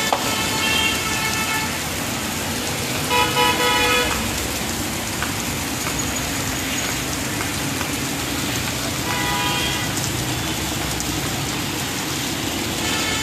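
Steady heavy rain with car horns honking over it: a honk about a second in, a quick burst of short toots at around three to four seconds, and another honk near nine seconds.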